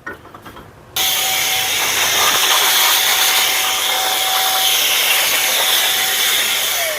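Can of compressed air (keyboard duster) spraying a long, steady hiss, blowing grinding dust off a hammer head. It starts abruptly about a second in and tapers off near the end.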